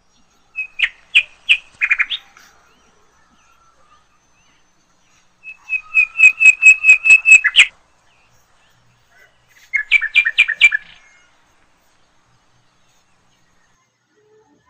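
A small bird chirping close by in three bursts of quick, repeated sharp notes; the middle burst is the longest, at about five notes a second.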